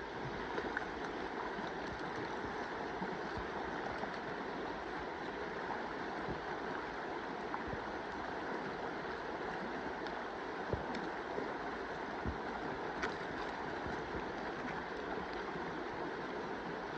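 Mountain stream flowing, a steady rush of water, with a few faint knocks in the middle.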